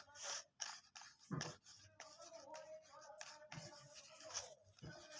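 Hands handling an LCD writing tablet: a string of scattered light taps, clicks and scrapes.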